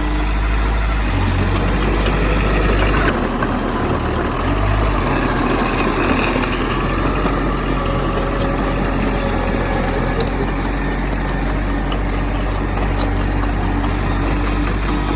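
Heavy diesel earthmoving engine running steadily, its low drone shifting about three seconds in.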